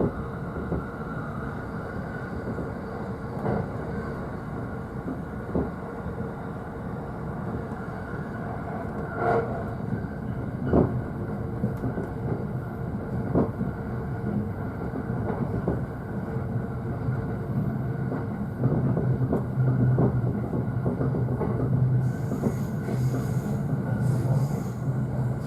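Running noise heard from the upper deck of a JR East E531 series double-deck car: a steady rumble of wheels on rail, with a handful of separate knocks as the wheels cross rail joints. A low hum grows stronger over the last few seconds.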